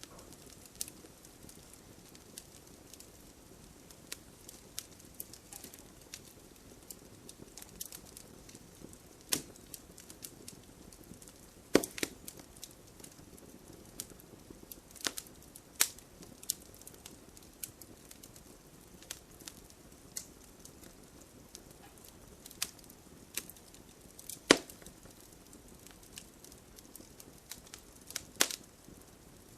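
Campfire logs burning with a soft steady hiss and irregular sharp crackles and pops, a few of them loud single snaps.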